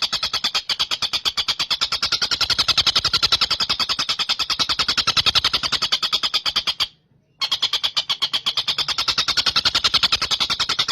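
Recorded call of a tengkek buto bird: a fast, even string of short, high notes repeated many times a second, breaking off briefly about seven seconds in and then starting again.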